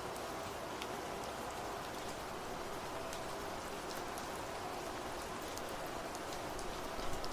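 Steady rain falling, with many separate drops ticking on a surface, over a few faint held tones.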